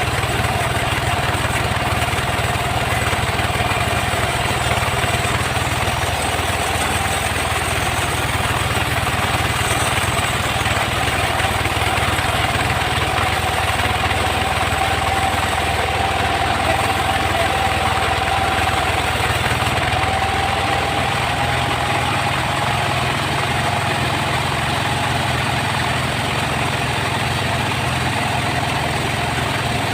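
Engine-driven sawmill saw running steadily: a low engine hum under a broad mechanical noise, with a whine that drifts slowly higher after the middle.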